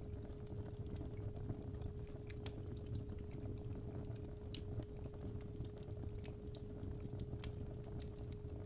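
Fireplace fire crackling with scattered small pops over a low rumble, with a steady 417 Hz sine tone held underneath.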